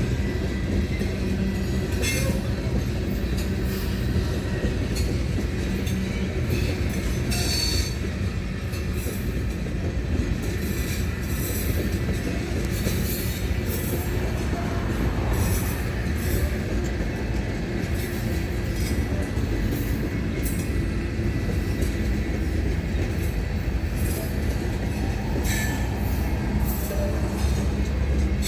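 Rock freight train rolling past in a steady low rumble, with repeated clicks of wheels over rail joints. Brief high wheel squeals come a few times, about a quarter of the way in and near the end.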